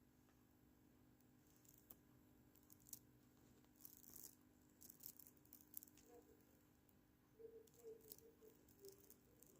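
Near silence: room tone with faint, scattered light clicks.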